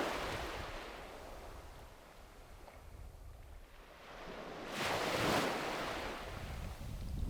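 Sea waves breaking on a beach: one wash fading away at the start, then a second wave breaking about five seconds in, over a steady low rumble of wind on the microphone.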